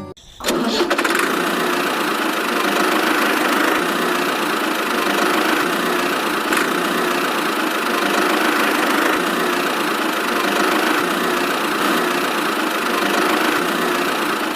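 A motor starts abruptly about half a second in and runs steadily. It has a dense, even buzz with little deep bass.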